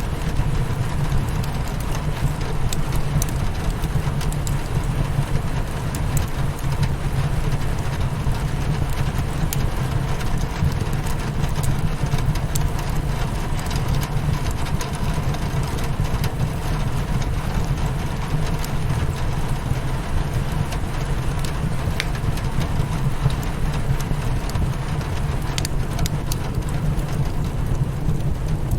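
Steady rain against a windowpane mixed with a crackling fireplace, with a steady low rumble underneath and scattered sharp clicks.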